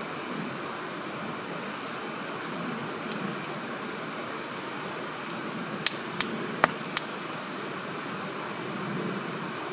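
Wood campfire burning over a steady background hiss, with four sharp pops from the burning wood in quick succession a little past the middle.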